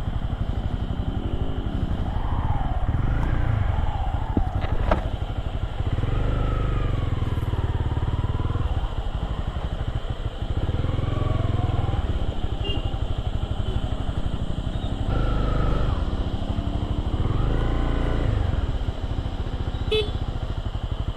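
Motorcycle engine running steadily, its pitch rising and falling as the throttle is opened and eased off, with a sharp click about five seconds in.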